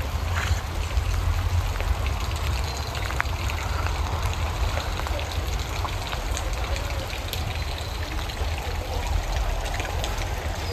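Steady rain, with scattered drops ticking close by, over a constant low rumble.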